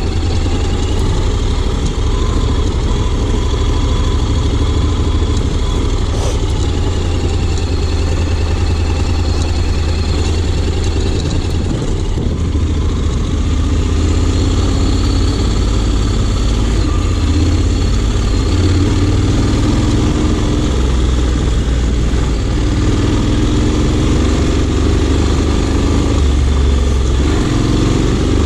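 Honda X-ADV 750's parallel-twin engine running while the scooter is ridden, its pitch slowly rising and falling with the throttle, over a steady low rumble of wind and road noise.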